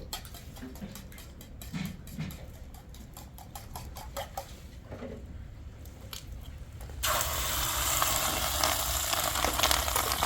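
Quiet with scattered small clicks, then about seven seconds in a sudden, steady hiss of heavy rain takes over, much louder.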